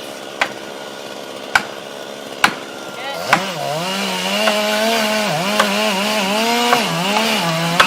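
Four sharp knocks about a second apart. Then, about three seconds in, a chainsaw engine rises to full speed and cuts, its pitch dipping and recovering repeatedly as the bar bogs under load in the wood.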